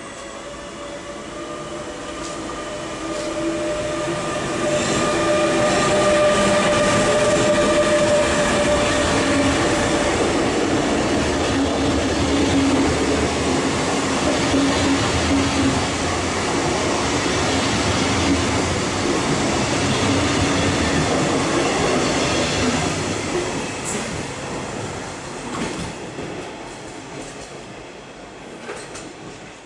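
An electric locomotive hauling red double-deck regional coaches passes close by. A whine of several steady tones comes as the locomotive approaches, then the loud, dense rumble and clatter of the coaches' wheels on the rails. It fades away near the end.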